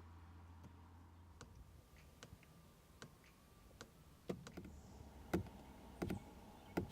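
A series of irregular sharp clicks and knocks, sparse at first and louder and closer together in the second half, over a faint low hum.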